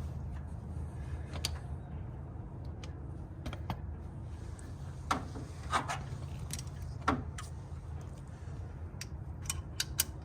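Light metal clicks and clinks, scattered irregularly, from hand tools and valve-train parts being handled while a valve spring on a Ford 351 Windsor is compressed and its keepers are worked loose. A steady low hum sits underneath.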